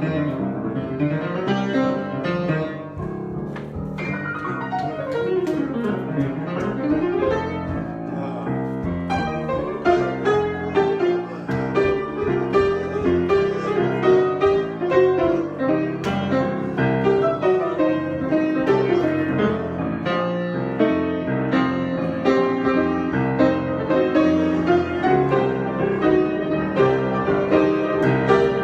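Solo piano improvisation, with a fast run sweeping down and then back up a few seconds in, then chordal playing that goes on steadily.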